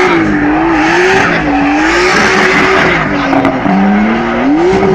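Car engine revving, its note rising and falling, with tyres screeching as a car drifts.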